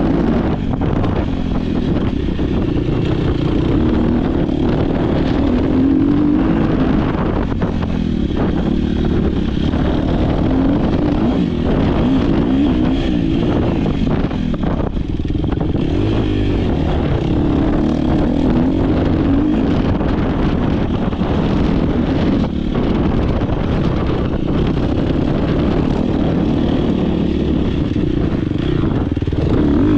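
Dirt bike engine racing hard, heard from an on-board camera, its pitch rising and falling again and again with throttle and gear changes, with scattered knocks and rattles from the bike over rough ground.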